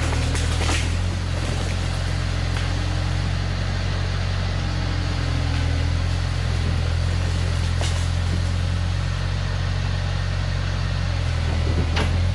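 Bobcat T250 skid-steer's diesel engine running steadily while pulling a downed tree. A few sharp knocks come through: near the start, about eight seconds in, and near the end.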